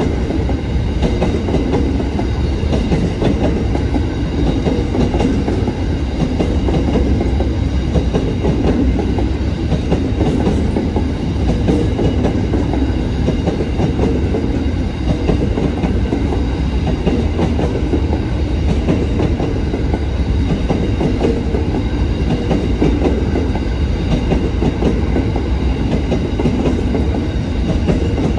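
A train running on the rails: a loud, steady rumble that holds without a break, with faint steady high tones above it.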